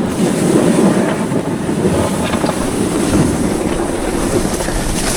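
Sled being towed fast over packed snow, a steady rumbling scrape mixed with wind buffeting the microphone.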